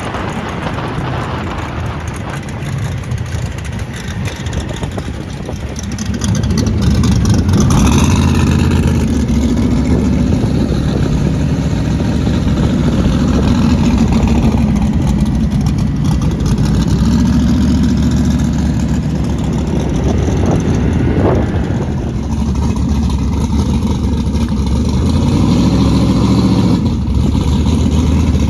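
Carbureted turbocharged LS V8 in a drag truck running, growing louder about six seconds in, with its pitch rising and falling as the throttle is worked.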